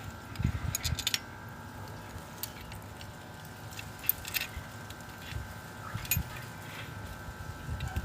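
Scattered metallic clicks and clinks with a few soft low thumps: hand tools and alternator parts being handled. A cluster comes about half a second to a second in, and single sharp clicks follow over the next few seconds. A faint steady whine sits underneath.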